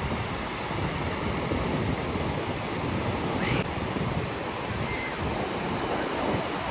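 Ocean surf washing ashore in a steady rush, with wind buffeting the microphone.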